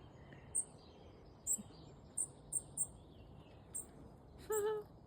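Small birds chirping: about seven short, very high chirps at irregular intervals. Near the end comes a brief lower voice-like hum.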